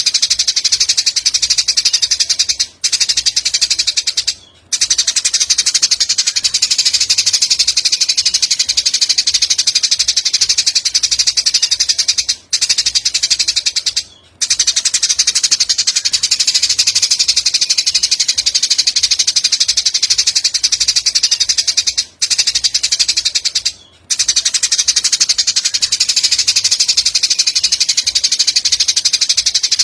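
A recorded animal call playing as songbird tutoring audio: a continuous, high-pitched, very fast trill. It breaks off briefly twice in quick succession about every ten seconds, as a repeating loop.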